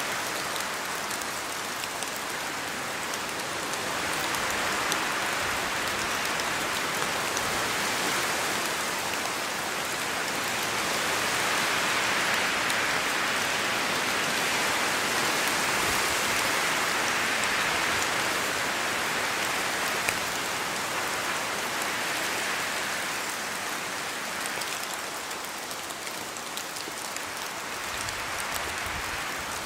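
Steady rain falling in a spruce forest, drops coming down from the trees, with wind in the branches. It swells louder through the middle and eases off near the end.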